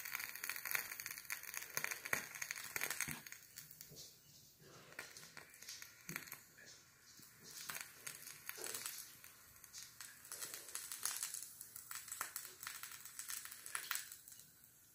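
Wax-covered cotton swab burning in a candle flame, crackling and sputtering in a dense run of sharp pops that comes and goes in waves and dies away near the end.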